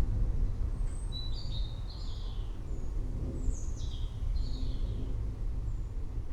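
Several small birds chirping and whistling in short high notes, some falling in pitch, over a steady deep low rumble.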